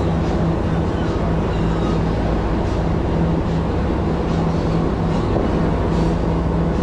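A boat's engines running steadily under way: an even, unchanging noise with a constant low hum.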